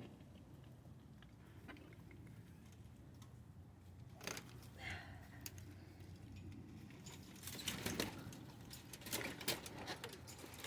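Chickens pecking at soaked fermented feed in a pan: scattered quick taps that grow thicker in the second half, with one brief call about five seconds in.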